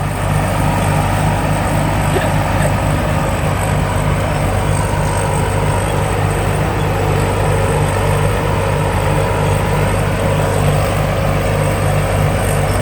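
Combine harvester with a J08C diesel engine running steadily under load, its engine and machinery making a constant hum with a steady high whine above it.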